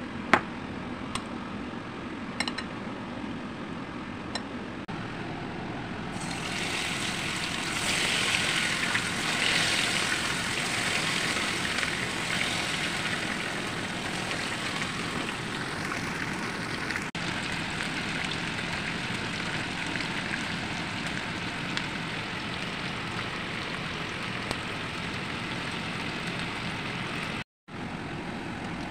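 Chicken wings frying in hot oil in a frying pan: a hissing sizzle swells about six seconds in, is loudest a few seconds later, then settles to a steadier, quieter sizzle, over a steady low hum. A few sharp clicks of handling come near the start.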